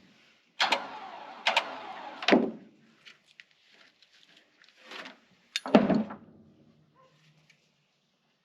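A string of metal knocks and clunks from a 1993 Jeep YJ, three sharp hits with rattling between them, then a heavier clunk about six seconds in.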